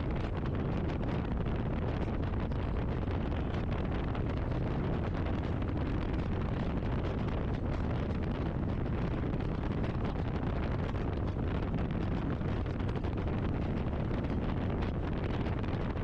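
Wind buffeting the microphone over a steady low rumble, as when riding a motorcycle at speed.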